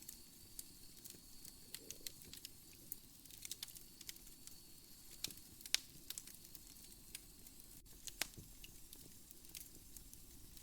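Wood fire crackling in a fireplace: irregular small pops and snaps, with two louder pops about five and a half and eight seconds in.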